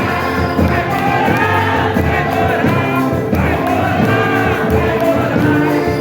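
Singing voices with instrumental accompaniment, steady and continuous: a congregation singing a hymn.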